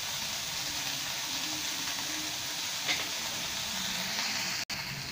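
Chicken and broccoli stir-fry sizzling steadily in a nonstick wok, with a faint tap about three seconds in.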